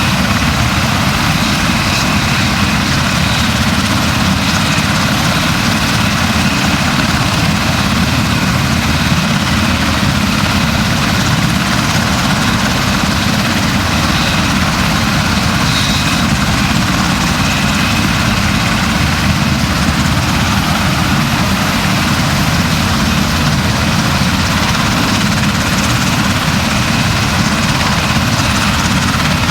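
Steady, unbroken engine drone.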